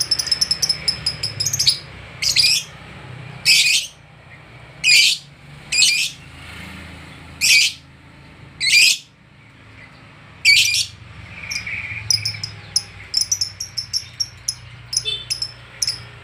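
Lovebird calling in an agitated ('emosi') state. Fast high chattering of about eight chirps a second gives way to a series of seven loud, shrill screeches spaced a second or two apart, and the rapid chattering resumes near the end.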